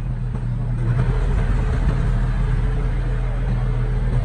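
Diesel engine of heavy construction machinery, a bulldozer or dump truck, running steadily, a little louder from about a second in.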